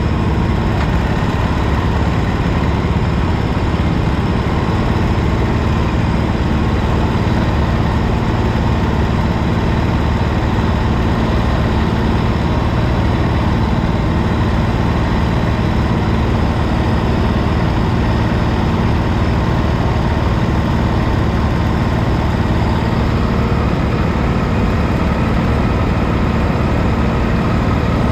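Go-kart engine running steadily during a race lap, with a constant wash of noise over it.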